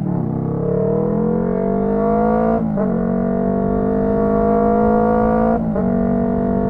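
Honda CB125T's 125 cc parallel-twin engine pulling under way through a loud muffler. The pitch climbs gradually and drops sharply twice, at the upshifts about two and a half and five and a half seconds in.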